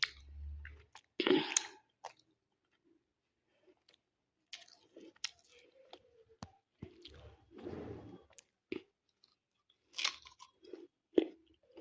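A parrot biting and crunching food with its beak: short, irregular crunches and clicks with pauses between them.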